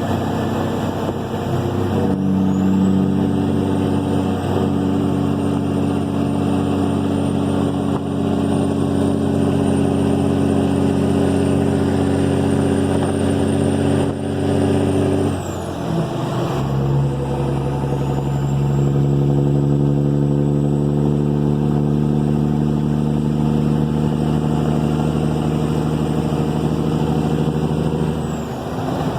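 Cat 3406E diesel in a Kenworth W900, running through 8-inch straight pipes and pulling steadily under load. About 16 seconds in the engine note drops to a lower pitch, as at a gear change, and then pulls steadily again. A thin high whine rises with each pull and fades before the change.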